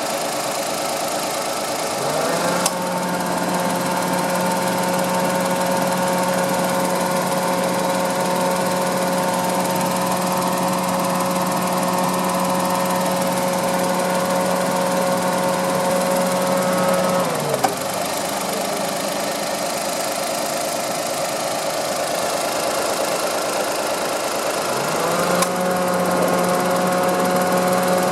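Nissan Moco's 660 cc three-cylinder engine idling, with a steady hum that rises in about two seconds in, holds, drops away about two-thirds of the way through and comes back near the end, as if a load such as the air-conditioning compressor cuts in and out.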